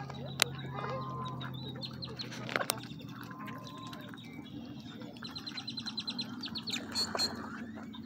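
Birds calling at a lakeshore: scattered chirps and clicks, with a fast run of high ticks about five seconds in.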